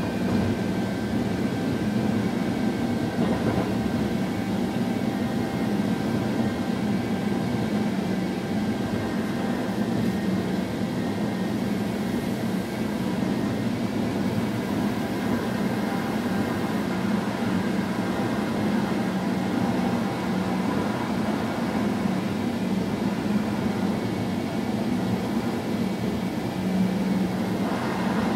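Steady running noise inside a moving electric train's driver's cab: an even low drone with a few faint steady high tones above it.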